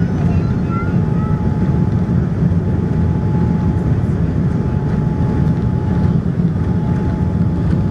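Steady low rumble of a Boeing 787-9 Dreamliner in motion, with a faint constant whine above it. There are a couple of brief faint squeaks in the first second.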